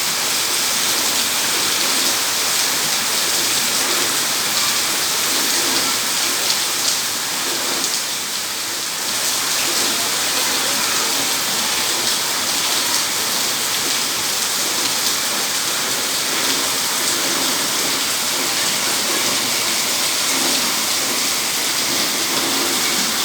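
Steady heavy rain, a dense even hiss of drops falling on surfaces, easing slightly for a moment about eight seconds in.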